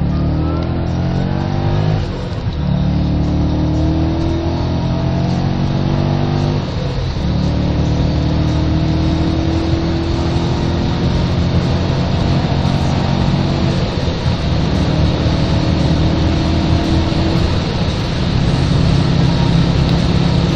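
BMW 540i V8 with a new aftermarket exhaust accelerating hard under full load, the engine note climbing in pitch through each gear. There are brief upshifts about 2 and 7 seconds in, then a long pull in the next gear and another shift near the end.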